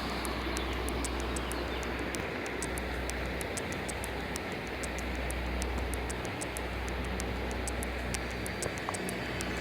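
Mountain stream rushing through the gorge: a steady, even water noise with a low rumble underneath.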